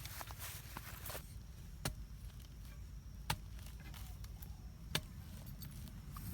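A digging tool striking into the ground while a hole is dug, in sharp single strikes about every second and a half, over a steady low rumble.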